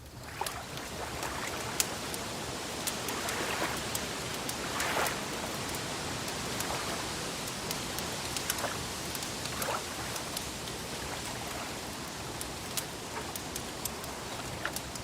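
Wood fire crackling, with scattered sharp pops over a steady hiss. Soft water sloshes come through now and then.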